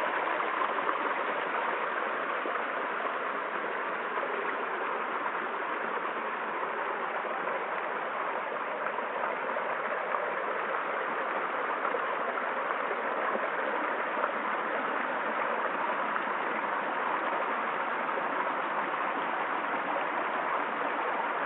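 Stream water flowing and splashing over rocks, a steady rushing babble.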